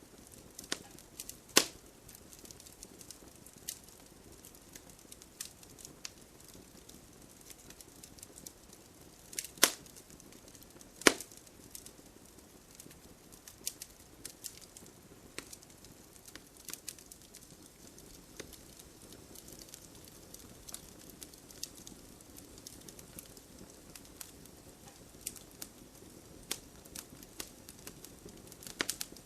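Wood campfire crackling: irregular sharp snaps and pops over a low, steady rush of burning. One loud pop comes shortly after the start, and two more come about ten and eleven seconds in.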